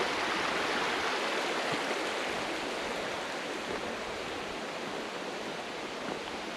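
Steady rush of flowing river water, easing slightly toward the end.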